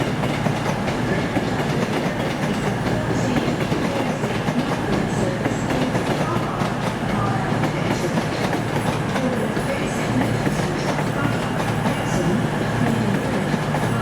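Passenger train at a station platform, running with a steady low hum and a constant rumble.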